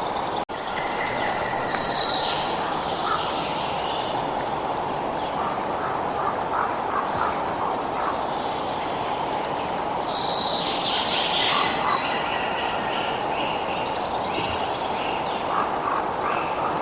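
Birds singing over a steady rushing background noise, with bursts of chirps and downward-sweeping calls about two seconds in and again around ten to twelve seconds in. There is a momentary break in the sound just after the start.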